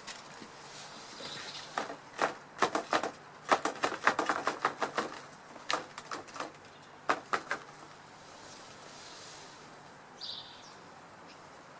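Birds' wings flapping in a few quick flurries of sharp claps, followed by a short high chirp.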